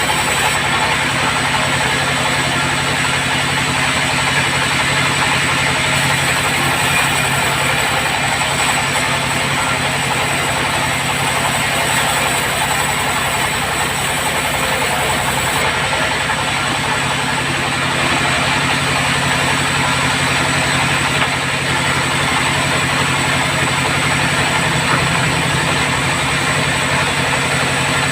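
Sawmill bandsaw running with a steady, loud drone, sawing acacia wood. A brighter hiss joins in from about six seconds in until about sixteen seconds.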